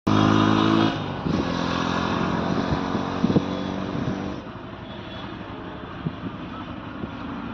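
Train sounding a horn for about a second, then running with a steady engine note and scattered clanks, quieter after about four seconds.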